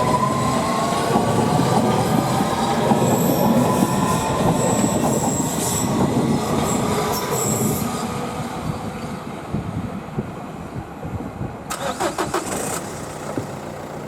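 London Underground District Line S7 Stock train passing close by: rumble and rattle of the wheels on the rails with a traction-motor whine that rises in pitch and then holds steady, and brief high squeals in the middle. The train noise fades over the second half, with a short burst of clicks near the end.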